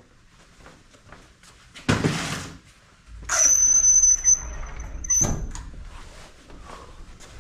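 A short rush of noise about two seconds in, then a steady high-pitched squeak lasting about two seconds that ends in a thump.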